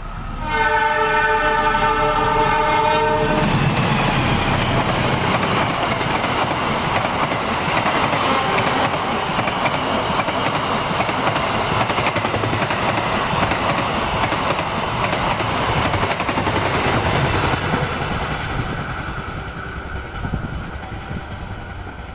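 CC 206 diesel-electric locomotive sounds its horn, a chord of steady tones lasting about three seconds, as it approaches at speed. Then the locomotive and its passenger coaches rush past close by, and the noise fades as the end of the train goes by.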